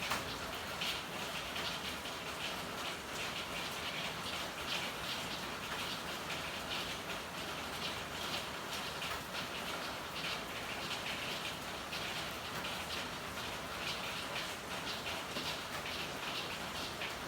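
Steady rain falling, with many irregular drops pattering and ticking on hard surfaces.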